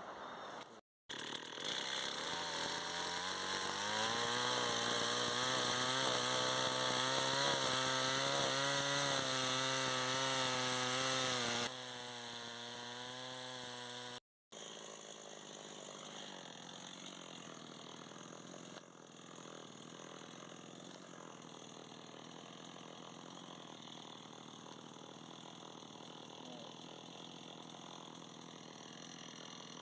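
Chainsaw running and cutting wood. It revs up about four seconds in with a wavering pitch, falls lower and quieter around twelve seconds, and after a brief gap runs on more quietly and steadily.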